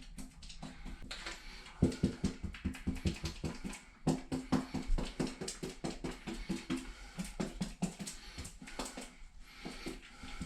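A brush dabbing and stippling resin-soaked fiberglass into the holes of a fiberglass shower, in rapid repeated strokes several times a second, pushing the fibers down while the resin is still wet.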